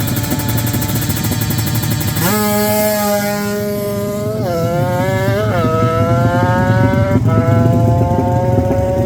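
Drag-racing motorcycle engine at full throttle, accelerating through the gears. After about two seconds of dense engine buzz, its note comes in and climbs steadily, wavers around the middle, and drops sharply at a gear change about seven seconds in before climbing again.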